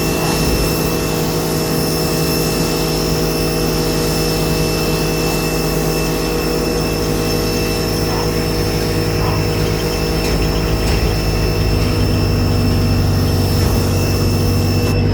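Giraffe Tools Grandfalls electric pressure washer running steadily while spraying: a steady motor whine over the hiss of the water jet.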